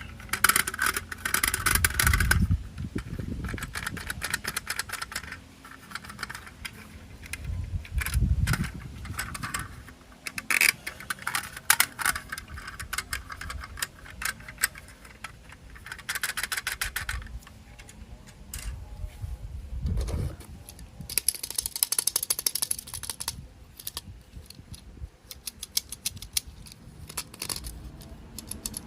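Plastic toy train parts being handled and fitted together: irregular clicking and rattling, with a few dull thumps.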